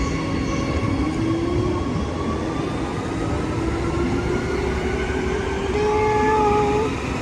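Transperth electric suburban train pulling out of the station, its motor whine rising slowly in pitch as it gathers speed, over a low rumble.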